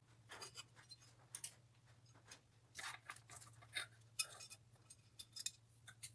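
Irregular light scrapes, taps and small clinks of hand work on small parts, over a faint steady hum.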